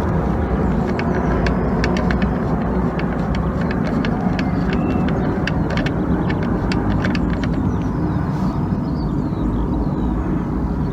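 Steady low rumble of outdoor background noise, with a run of small sharp clicks and ticks over most of the stretch that fade out near the end.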